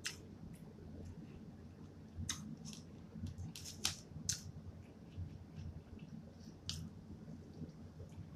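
Close-up chewing and mouth sounds of someone eating: scattered wet clicks and smacks, a handful of them, loudest a little after the middle, over a low steady hum.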